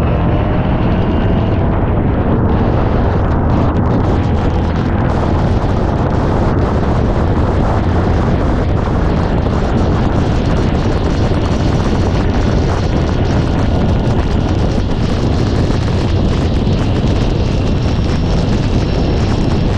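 MGA race car's four-cylinder engine running hard under racing load, heard onboard, with heavy wind buffeting on the microphone. The engine note climbs in the first couple of seconds, then the din holds steady.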